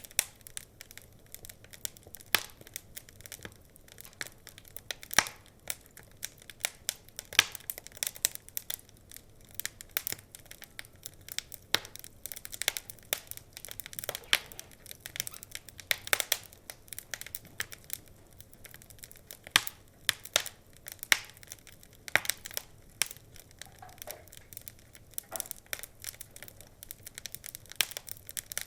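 Wood fire crackling in a fireplace: irregular sharp pops and snaps of burning logs, a few louder pops standing out among many small crackles, over a low steady hiss.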